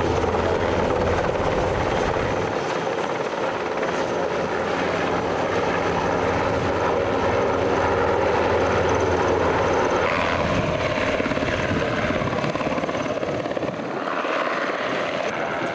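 Aircraft in a display flight, its engine noise steady and loud, with a low hum that fades about two and a half seconds in.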